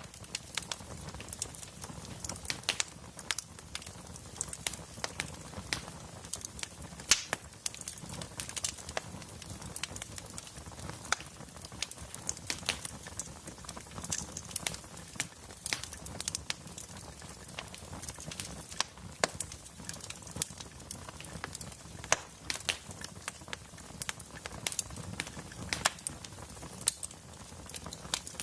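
Wood fire crackling, with frequent irregular sharp pops and snaps over a soft steady hiss of burning.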